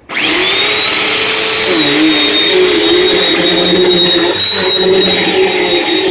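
Bissell PowerForce Helix upright vacuum cleaner switching on and running steadily. A high whine rises and settles within the first half second, and the lower motor pitch wavers up and down as it runs.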